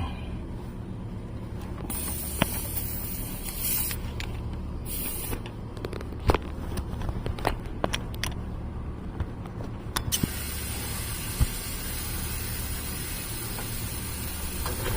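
Hissing air in short bursts, then a steady hiss from about ten seconds in, with a few sharp clicks and knocks, over a low steady hum.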